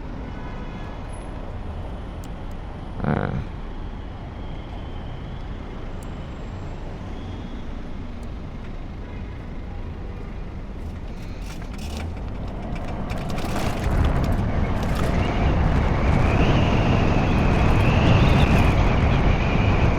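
Wind and road rush while riding a 96-volt electric motorcycle, building louder about two-thirds of the way through as the bike picks up speed. A high, slightly wavering whine comes in near the end.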